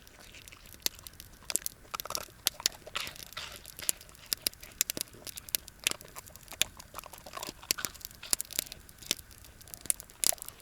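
A dog chewing and crunching on food it has just been given, with irregular sharp crunches and clicks.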